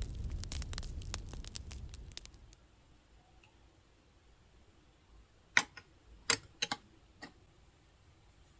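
Added fireplace crackling sound, a dense run of small pops over a low rumble, which stops about two and a half seconds in. Later a few sharp clicks, four or five within about two seconds.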